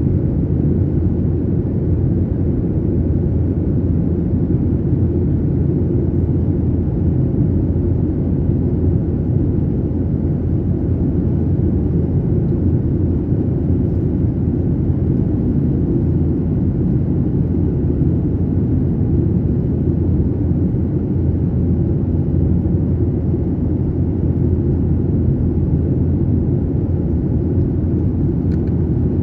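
Airliner cabin noise: a steady, loud low rumble of engines and airflow with a faint steady hum above it, unchanging throughout.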